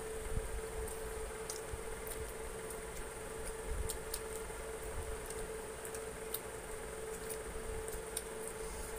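Close-miked chewing and lip-smacking of people eating fried chicken and rice with their hands: scattered wet clicks and smacks at irregular times. A steady hum runs underneath.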